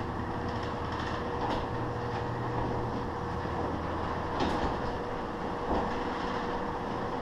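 Chain-drive garage door opener running: a steady motor hum and whine with the drive chain rattling along the rail and a few sharp clanks, about a second and a half, four and a half and near six seconds in. The chain is loose and, in the owner's view, past saving.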